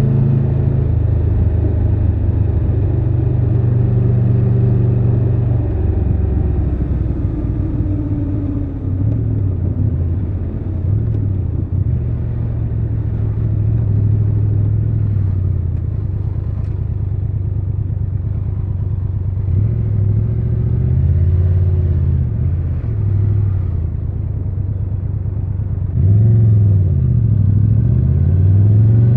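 Triumph Tiger 1200 Rally Pro's three-cylinder engine on the move, running steadily at first, then revving up and down several times over the last third as the throttle opens and closes through gear changes.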